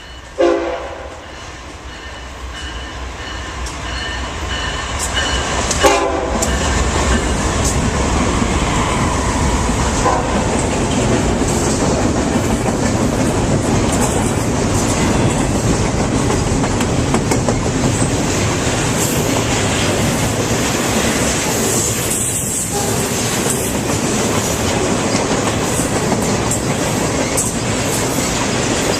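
A train sounds two short horn blasts, one right at the start and one about six seconds in, as it approaches. It then passes close by, its steady rumble and wheel clatter over the rails building up over the first several seconds and staying loud.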